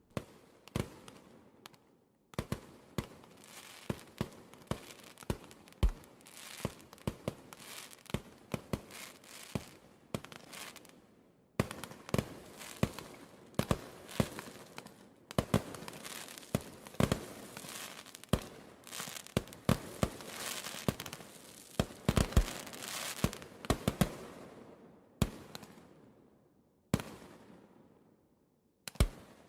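Fireworks going off: a rapid, irregular run of sharp bangs and crackling, in clusters broken by short pauses. Played here at low volume, as part of a dog desensitization track.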